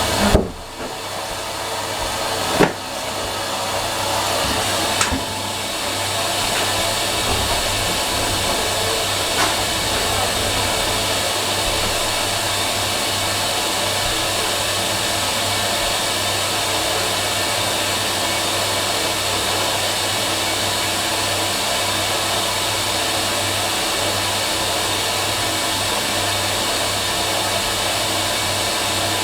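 Fisher & Paykel MW512 top-loading washing machine running with a steady whooshing noise and a low hum. A few sharp clicks come in the first five seconds as the sound builds up, and then it holds steady.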